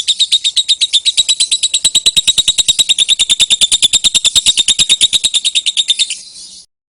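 Lovebird giving its long 'ngekek' chatter: a fast, even run of shrill notes, about ten a second, that stops abruptly near the end.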